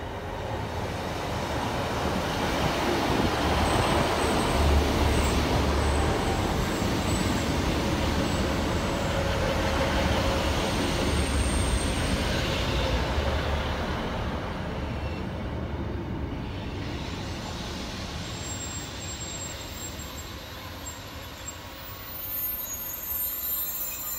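Diesel multiple unit train approaching and running close past, its engines and wheels on the rails growing loud about five seconds in and then slowly fading as it draws away.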